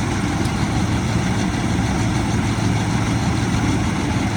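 Diesel tractor engine running steadily at a low, even speed.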